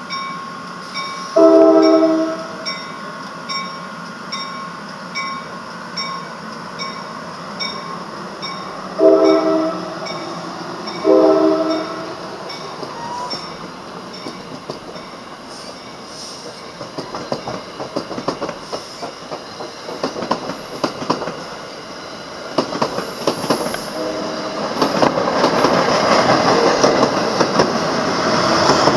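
NJ Transit commuter trains: a bell dings about twice a second through the first half, and a train horn sounds three blasts of about a second each, one early and two close together near the middle. From about halfway, the wheel clatter of rail cars passing close builds up and grows louder, with another faint horn near the end.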